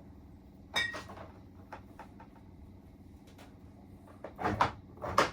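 Kitchen cupboard doors being opened and shut while someone searches the shelves, with a knock about a second in and two louder knocks near the end.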